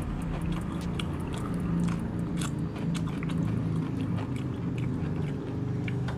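A person chewing a mouthful of crunchy food close to the microphone: many small crisp crunches and wet mouth clicks, with no pause.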